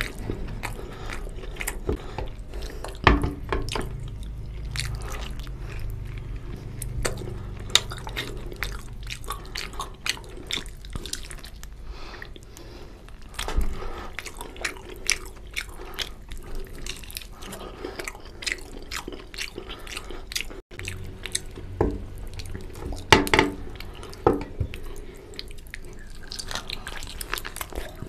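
Close-miked chewing and wet mouth sounds of a man eating mutton curry and rice by hand, a steady run of soft smacks and clicks with a few louder ones about three seconds in and twice near the end.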